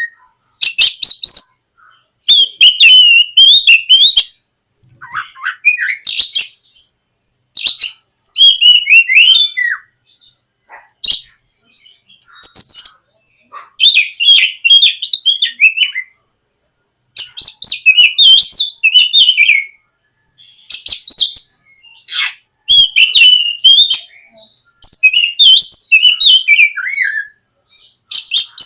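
Oriental magpie-robin (kacer) singing loudly in varied whistled and chattering phrases of one to two seconds each, separated by short pauses.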